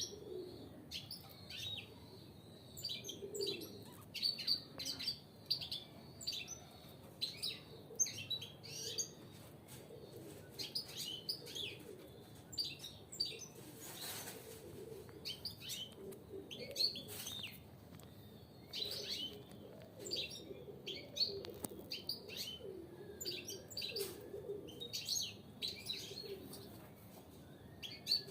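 Caged European goldfinches chirping in quick, repeated short calls, with wing flutters and small knocks scattered throughout.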